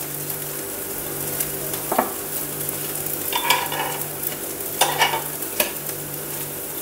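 Small rice-and-potato pancakes sizzling as they fry on a flat nonstick pan, over a steady low hum. A metal spatula scrapes and clacks against the pan several times as the pancakes are turned.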